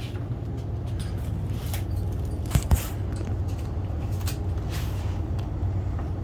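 Steady low machine hum, with two short knocks about two and a half seconds in.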